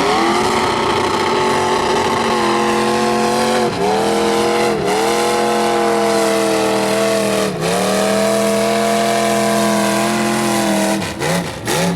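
Ford mud truck engine revving sharply up to high rpm and held at full throttle, dipping briefly three times. Near the end it drops off, with two quick rev blips.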